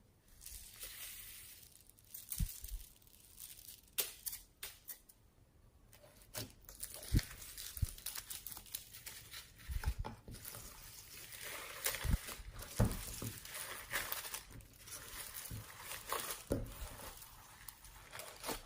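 Slime being kneaded and stretched by hand: irregular crackling and crinkling, with many small clicks and soft low thumps.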